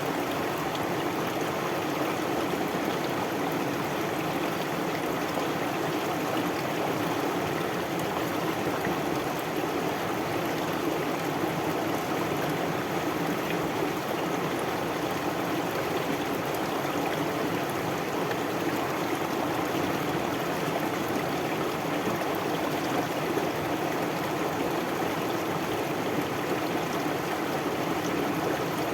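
A stream flowing steadily: an even, unbroken rush of water.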